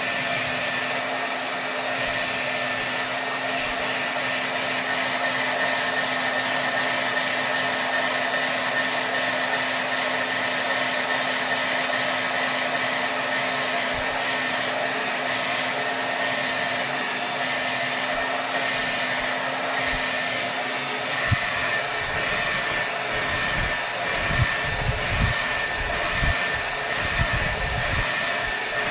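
Hair dryer blowing steadily at full power: an even rush of air with a faint steady whine over it. In the last third, a few short low thumps break in.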